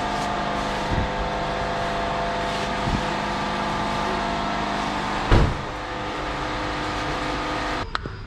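A steady mechanical running drone with a few sharp knocks, the loudest about five seconds in; the drone cuts off abruptly shortly before the end.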